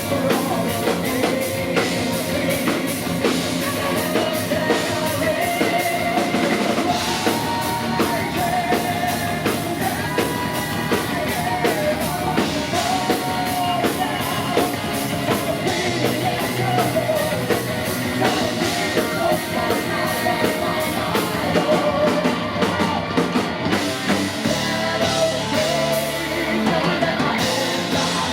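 Heavy metal band playing live: distorted guitars, bass and a pounding drum kit, with a sung or guitar melody line over them.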